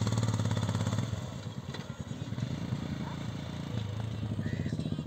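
Motorcycle engine running as the bike is ridden, a little louder for the first second and then easing off slightly.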